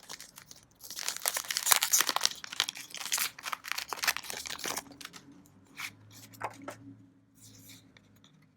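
Foil trading-card booster pack crinkling and tearing as it is ripped open and handled, dense for about four seconds, then only a few light scattered rustles and clicks.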